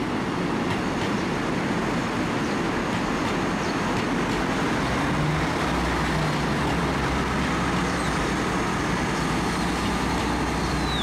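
Passenger train running past close by: a steady rumble of the train on the rails, with a low hum that strengthens from about halfway through.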